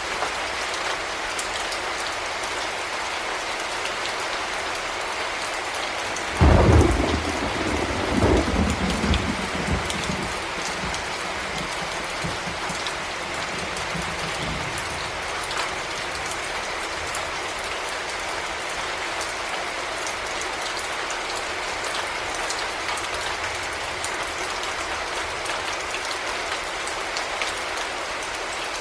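Heavy rain falling steadily. About six seconds in, a sudden clap of thunder breaks out and rolls on for several seconds before dying away under the rain.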